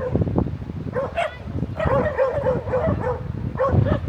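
Dogs in a squabble, yapping and yelping: short high barks, a quick run of them about two seconds in and a few more near the end.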